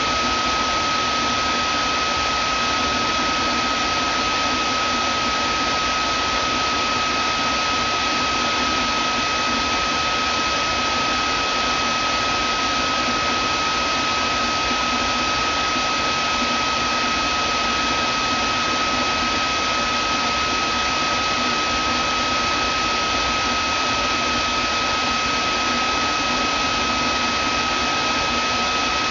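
Vacuum cleaner motor running steadily, a constant rushing hiss with a steady high whine through it.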